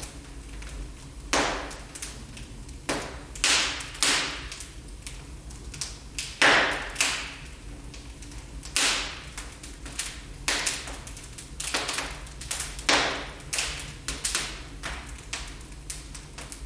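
Fire burning in a fireplace, crackling with irregular sharp pops, the loudest about six and a half seconds in, over a steady low rumble.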